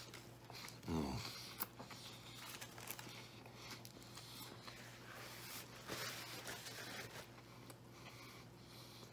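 A man chewing a mouthful of veggie sub sandwich with his mouth closed, with a short falling 'mmm' of appreciation about a second in. Soft paper rustling near the end as he handles a napkin, over a faint steady hum.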